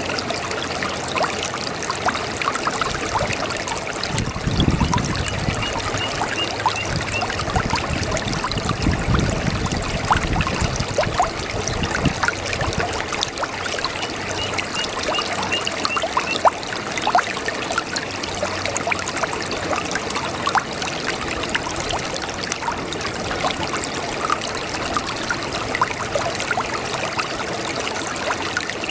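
Small brook babbling and trickling over stones, with many small splashes and a couple of low rumbles in the first ten seconds.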